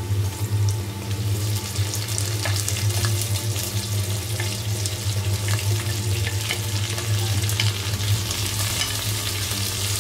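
Garlic and sliced onions sizzling in hot oil in a stainless steel pot, with a wooden spatula scraping and ticking against the pot as they are stirred. A steady low hum runs underneath.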